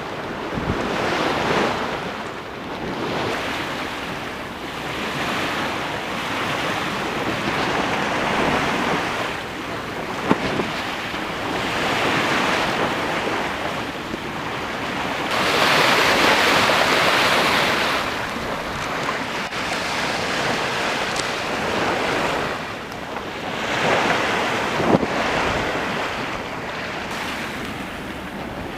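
Sea water rushing along the hull of a sailing yacht under way, swelling and easing every few seconds with the waves, with wind on the microphone. There is a longer, louder surge about halfway through, and a couple of short knocks.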